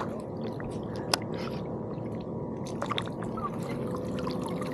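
Shallow bay water sloshing and splashing around a wading angler, with scattered small ticks and one sharp click about a second in.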